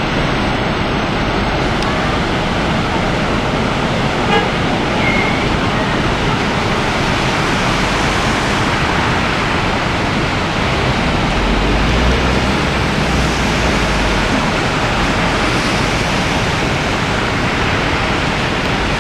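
Swollen floodwater rushing: a loud, steady, even rush of water noise with no break.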